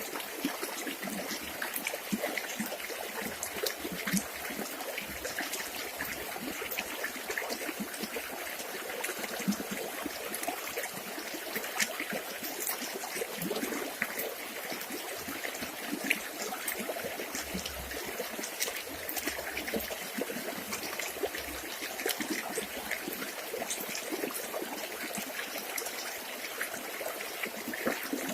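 A small river flowing over stones, a steady trickling and babbling with many small splashes.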